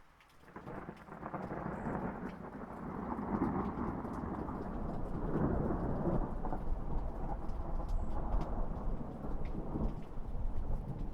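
A long roll of thunder that swells in about half a second in and rumbles on with surges, over a steady patter of rain.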